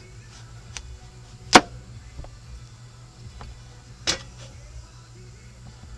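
Two sharp knocks about two and a half seconds apart, the first the louder, with a few faint ticks, over a low steady hum.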